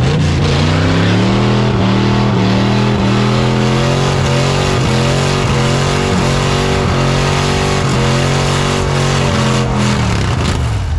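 A car engine revs up and is held at high, steady revs for a burnout, then drops back about ten seconds in. The engine sound sits over a loud, even noise.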